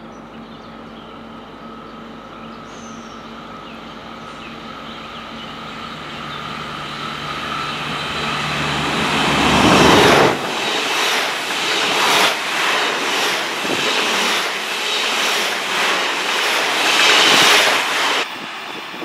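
Alstom Coradia LINT diesel multiple unit approaching with a steady diesel engine hum that grows louder. About ten seconds in it passes close, and the engine note gives way to a rush of wheel and rail noise with a rhythm of clacks as the bogies cross rail joints. The noise drops off sharply near the end.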